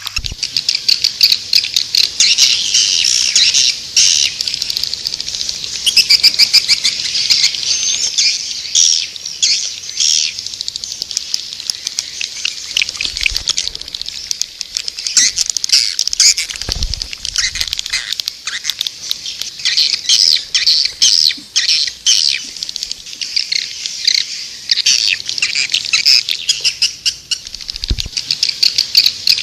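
Recorded calls of white-nest swiftlets: a dense, unbroken chorus of rapid high chirps and twittering clicks. It is a swiftlet calling sound, played at swiftlet houses to draw the birds in to roost and nest.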